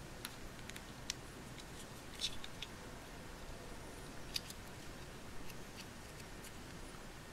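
Faint, scattered small clicks and taps of a plastic Play-Doh popsicle mold being clamped shut and squeezed in the hands, over a low steady hiss.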